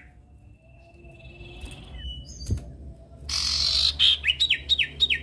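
Common iora (sirtu, cipoh) calling: a faint thin whistle, then, about three seconds in, a loud harsh rasp followed by a quick run of sharp sliding chirps.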